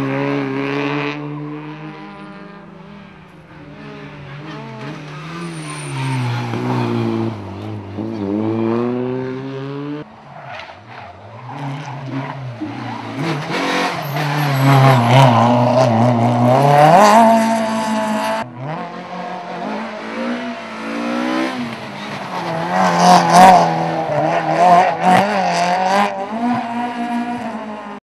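Rally cars driven hard through tarmac circuit corners, engines revving up and down through gear changes with tyre squeal as they slide. Three separate passes follow one another with abrupt cuts, about ten and eighteen seconds in.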